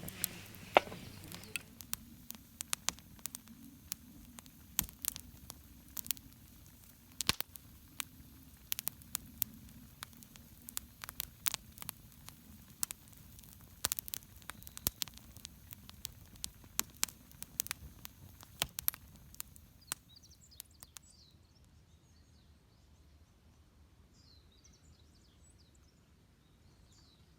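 Wood fire crackling in a small fire pit, with irregular sharp pops and snaps. About twenty seconds in, the crackling stops abruptly and faint bird chirps remain.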